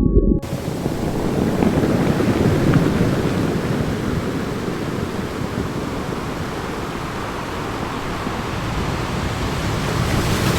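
Steady rushing noise of surf, swelling and easing slowly.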